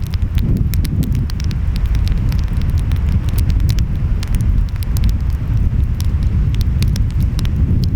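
Wood fire crackling, with frequent irregular sharp pops and snaps, over a steady low rumble of ocean waves and wind.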